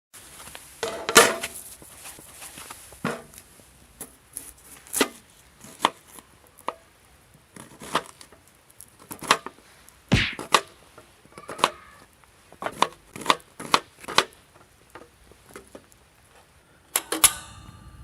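Knife chopping food on a cutting board: irregular single knocks and clicks, one or two a second, with a louder knock about a second in and another near the end.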